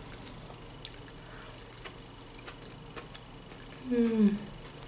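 Quiet, wet mouth sounds of chewing fresh tomato salad: scattered small clicks and squelches. About four seconds in comes a short hummed 'mmm' that falls in pitch.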